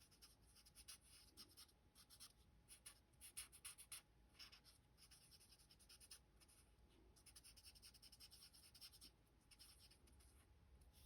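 Faint scratching of a Stampin' Blends alcohol marker colouring on cardstock in small circles: quick, uneven strokes.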